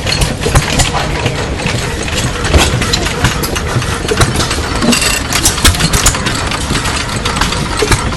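Christensen Badger sideshaft hit-and-miss gas engine running, with a busy clatter of sharp clicks and knocks over a steady low rumble.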